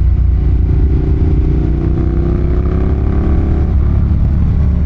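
Ducati Monster 1200's L-twin engine pulling under throttle, its pitch rising steadily, then dropping briefly near the end.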